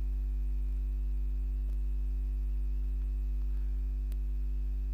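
Steady electrical mains hum, a low buzz with evenly spaced overtones, picked up by the recording setup. Two faint clicks come through it, one about a second and a half in and one near the end.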